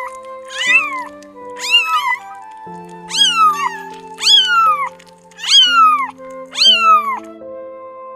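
A cat, high-pitched like a kitten, meowing over and over, about one short rising-and-falling meow a second, with background music playing steady chords underneath.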